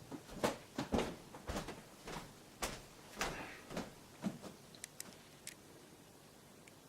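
Irregular soft knocks and a brief rustle, about a dozen in the first four seconds, followed by a few faint sharp clicks.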